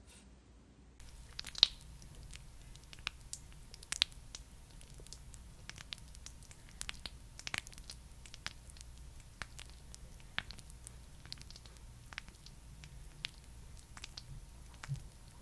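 Close-up sticky, squishy clicking and crackling of a thick skincare product being worked on or near the microphone. The clicks are irregular and start about a second in.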